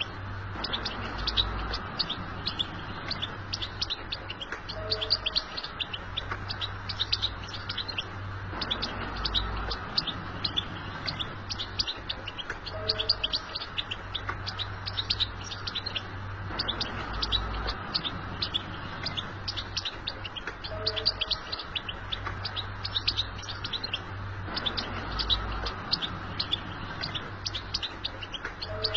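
European goldfinch song: a continuous stream of fast, high twittering and chirping notes. The same passage loops about every eight seconds over a steady low hum.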